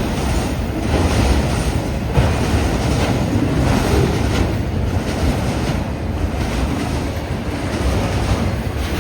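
Strong gusty wind buffeting the microphone, a dense low rushing noise, over a long freight train rolling past.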